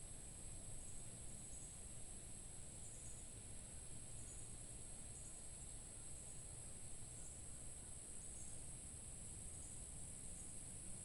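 Steady high-pitched chorus of insects, cricket-like, with a faint low rumble underneath.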